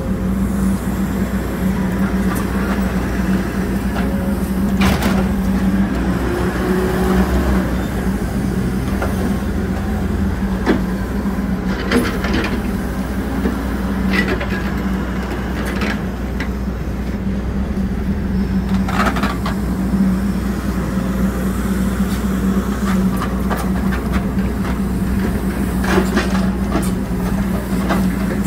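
Hidromek 102S backhoe loader's diesel engine running steadily with a constant low hum, with a few sharp metallic knocks scattered through it.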